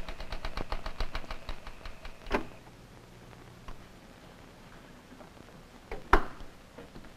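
Rapid, even clicking, several a second, that fades out about two and a half seconds in and ends on a louder click. A few faint clicks follow, then a single sharp knock about six seconds in.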